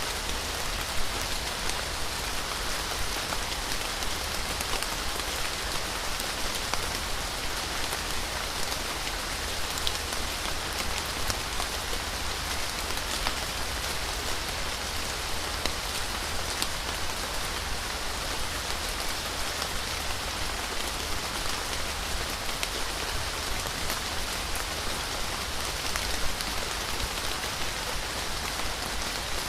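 Steady rain falling, heard as an even hiss dotted with many small drop hits.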